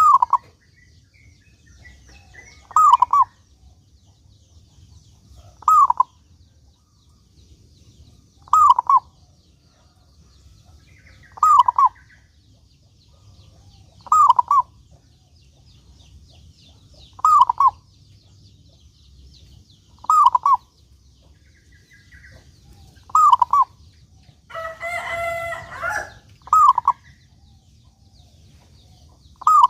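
Zebra dove (perkutut) calling, a short cooing phrase repeated at a steady pace about every three seconds. Near the end another bird gives one longer, harsher call.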